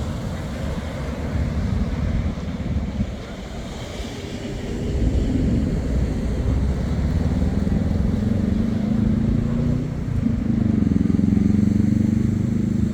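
Wind buffeting the microphone over the rush of surf. From about halfway through, a steady engine hum joins in and grows louder toward the end.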